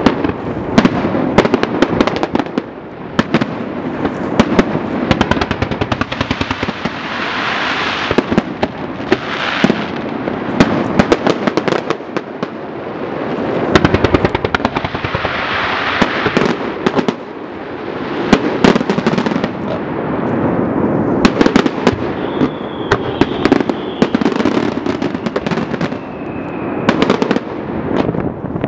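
Fireworks display: shells bursting in quick, uneven succession with crackling, over swelling stretches of rushing hiss from launches and fountains.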